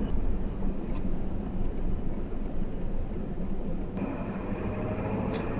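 Low, steady rumble of a vehicle on the move, with road and wind noise; the sound changes abruptly about four seconds in and becomes steadier.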